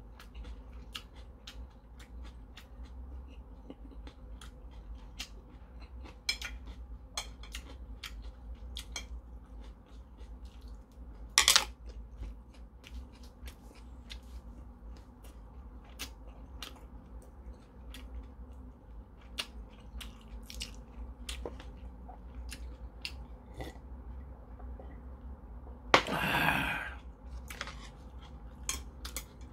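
A person chewing and lip-smacking while eating dumplings and stir-fried eggplant, with many scattered light clicks. A sharp louder sound comes about eleven seconds in, and a louder rush of noise lasting about a second near the end.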